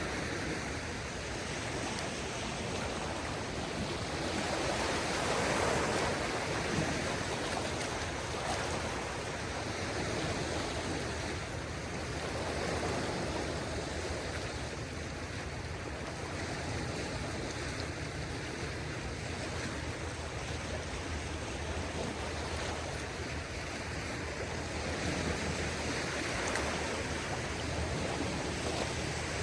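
Small waves of a calm sea washing onto a beach: a steady rush of water that swells gently now and then.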